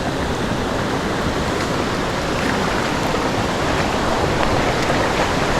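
Creek water rushing steadily over rocks, an even, unbroken hiss of flowing water.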